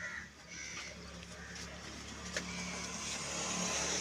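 An engine running with a low, steady hum that slowly grows louder, with birds chirping faintly.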